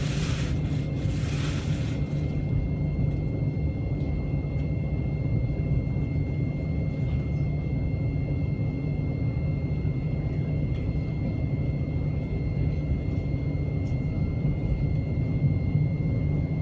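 Electric passenger train running at speed, heard from inside the carriage: a steady low rumble of wheels on rail with a few faint steady high tones, and a brief hiss in the first two seconds.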